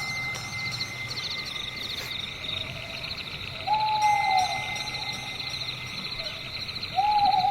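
An owl hooting twice, about four seconds in and again near the end, each hoot a short note that rises quickly and then holds. Under it runs a steady night chorus of fast, even chirping.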